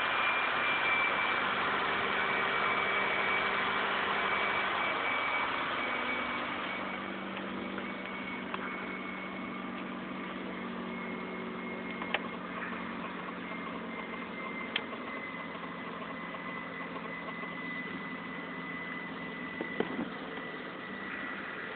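Honda Civic idling steadily, with a thin high whine held throughout; the sound drops in level about six seconds in, and there are a few light clicks later on.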